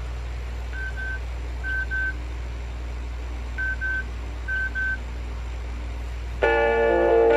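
Pairs of short electronic beeps, all at one pitch, over a steady low hum: two pairs, a pause, then two more pairs. Music with plucked guitar starts near the end.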